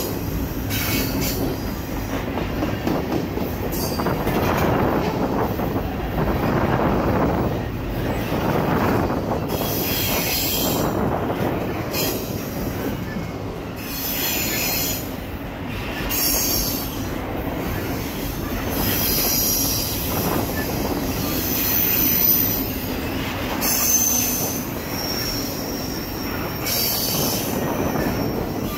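Double-stack container freight train rolling past: a steady rumble and clatter of steel wheels on rail, with short high-pitched wheel squeals coming and going every few seconds.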